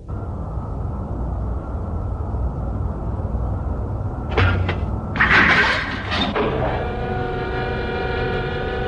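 Animated sci-fi sound effect of a spaceship's engine starting up: a low rumble with two hissing bursts about halfway through, then a steady pitched machine hum as the engine comes up to speed.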